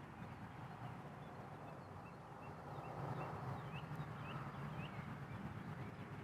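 Small birds chirping, short calls scattered through, three clearer ones in the middle, over a low steady rumble of outdoor ambience.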